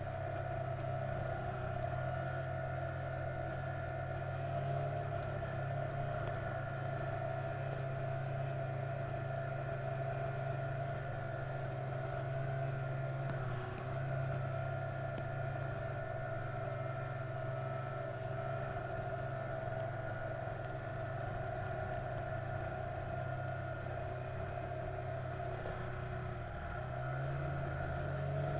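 Vehicle engine running at a steady cruising speed, with road and wind noise. Near the end the engine note dips briefly, then climbs again, as in a gear change.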